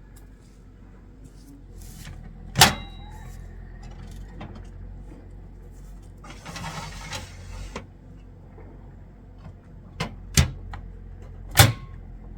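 A few sharp knocks, one with a short ringing tail about two and a half seconds in and three close together near the end, with a brief rustle in the middle.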